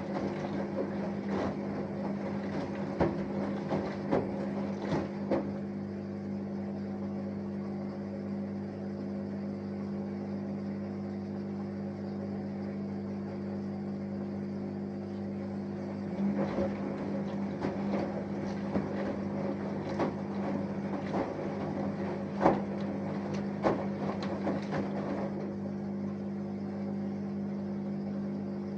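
Samsung Eco Bubble 6.5 kg inverter washing machine running a wash: a steady hum of several fixed tones, with bursts of light knocks and splashes as the laundry tumbles in the drum, near the start and again through the second half, and a quieter stretch between.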